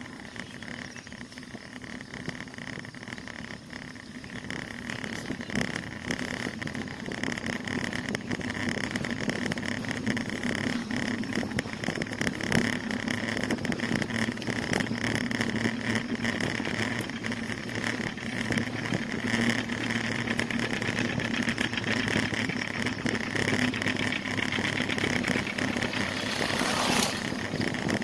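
Riding noise on a moving bicycle: a steady rush and hum that grows gradually louder. Near the end comes a brief, louder rush.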